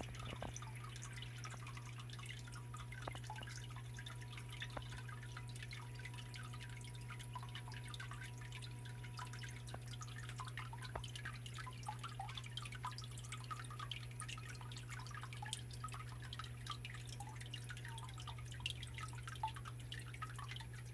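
Small waterfall in a stone biotope pond: water trickling and dripping onto the rocks in many small splashes. A steady low hum runs underneath.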